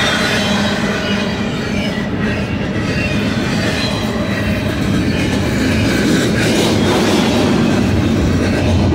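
Double-stack intermodal freight train's loaded well cars rolling past: a steady, loud rumble and clatter of steel wheels on the rails.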